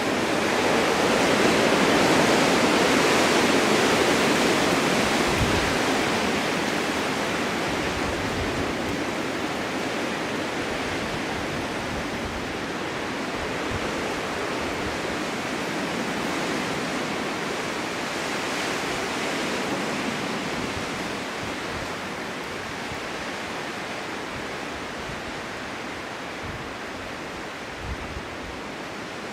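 Strong winter wind blowing in steady gusts, a dense rushing noise that swells a couple of seconds in and then slowly dies down.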